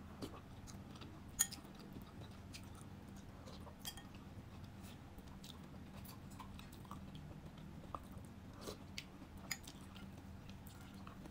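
A person chewing a mouthful of food, with short clicks and smacks scattered throughout, the sharpest about a second and a half in, over a faint steady low hum.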